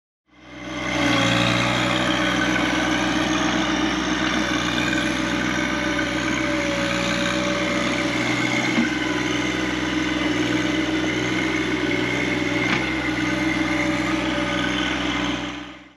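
An engine running steadily at an even speed, fading in just after the start and fading out at the end.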